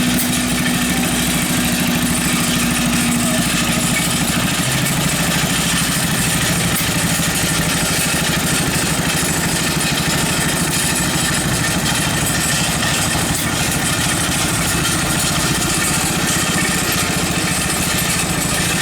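Small engine of a homemade little tractor running steadily with a rapid, even firing beat, its pitch shifting lower about four seconds in.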